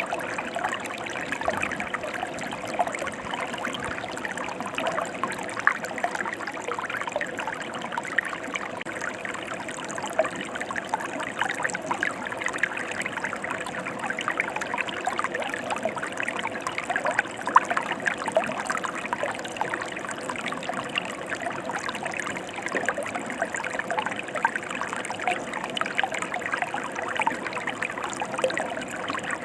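Stream water flowing steadily, a continuous rush with many small splashes and trickles throughout.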